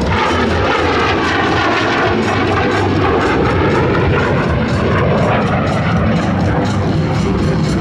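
F-35 Lightning II fighter jet flying a demonstration pass, its jet engine loud and steady throughout, with a hiss that slowly sweeps up and down in pitch as it passes.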